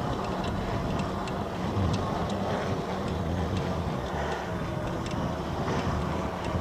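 Steady wind noise on the microphone while riding an electric bicycle, with scattered light ticks.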